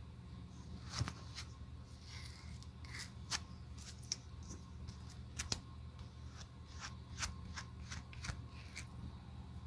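Hand tools working on a leather cowboy boot: irregular light clicks, taps and short scrapes, over a low steady hum.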